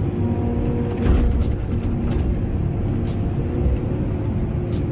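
Excavator's diesel engine running steadily under work, with a brief louder low surge about a second in.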